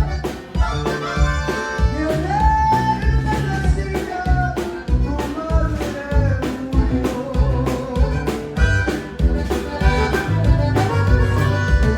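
Live Tejano band playing amplified through a PA, a sung or melodic line gliding over a steady drum beat and bass.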